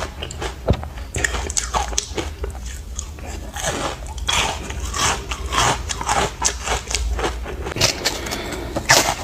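Ice chunks dusted with matcha powder being bitten and chewed: dense, irregular crunching and crackling, with the loudest crunches near the end.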